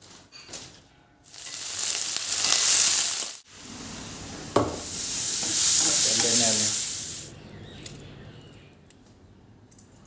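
Food sizzling in hot oil in a pan, in two loud stretches of a few seconds each, broken by an abrupt cut, with a sharp knock at the start of the second stretch.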